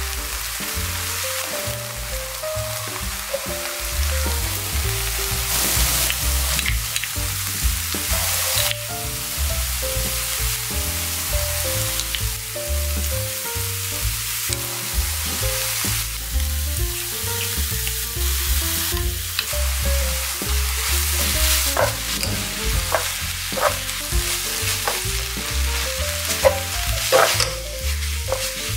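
Crumbled tofu, vegetables and tuna sizzling steadily in oil in a nonstick frying pan. A wooden spatula stirs and scrapes the pan, with sharp taps that come more often near the end.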